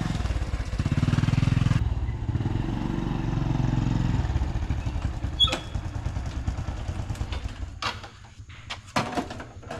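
Small motorcycle engine running with a fast, even pulse, loudest in the first two seconds and then settling lower, as at idle. A few sharp clicks and knocks sound over it in the last few seconds.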